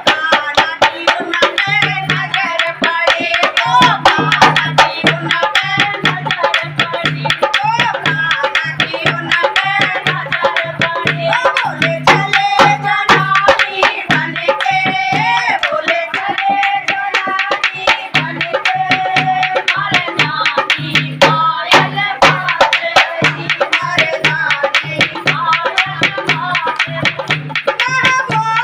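Hindi devotional bhajan: a woman's singing voice over a steady, fast rhythm on hand drums, with sharp clicking percussion throughout.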